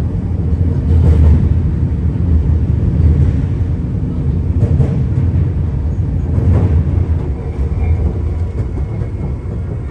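Shinano Railway's Rokumon train, a 115-series electric train, running along the line. Its wheels and motors make a steady low rumble, with a few clanks at about one, five and six and a half seconds in.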